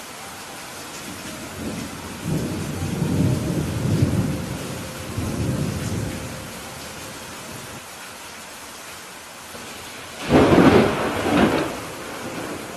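Steady rain with two rolls of thunder: a low rumble from about two to six seconds in, then a louder, sharper clap about ten seconds in that fades within two seconds.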